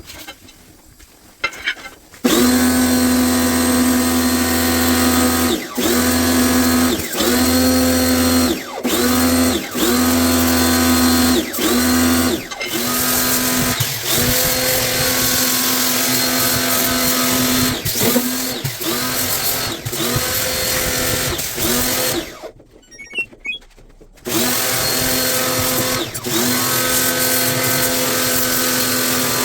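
Power drill-driver running in a long string of trigger pulls, its steady whine briefly dipping and climbing back each time it is eased off, with a pause of about two seconds near the end.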